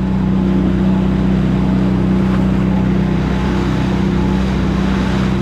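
Charter boat's engine running steadily with a constant low hum, over a steady rushing noise.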